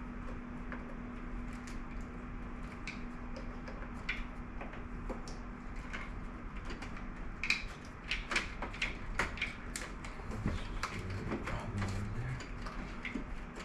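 Scattered clicks and metal clinks of a wrench at work as the Nissan 350Z's engine is turned over by hand to check that it is not seized, more frequent in the second half, over a faint steady hum.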